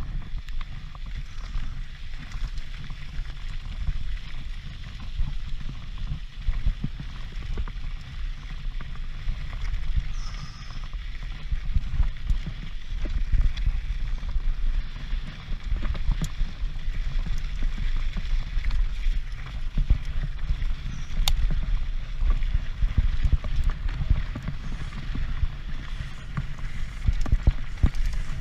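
Wind buffeting a helmet-mounted action camera's microphone as a Transition Patrol mountain bike descends at speed, with a constant low rumble and scattered sharp clicks and rattles from the bike over rough ground.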